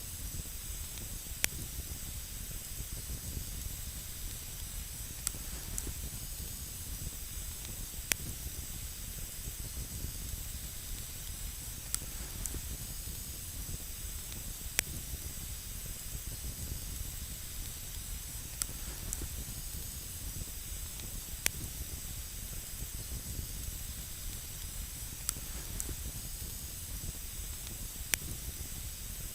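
Wood campfire burning with a steady hiss and low rumble, and sharp crackling pops every few seconds at irregular intervals.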